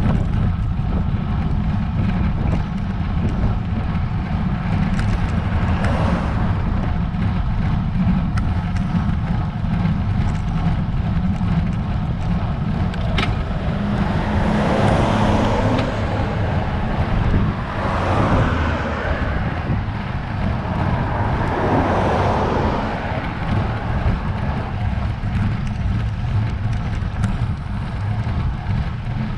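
Wind buffeting the microphone of a camera on a moving road bike: a steady low rumble, with a few louder swells of rushing noise about halfway through.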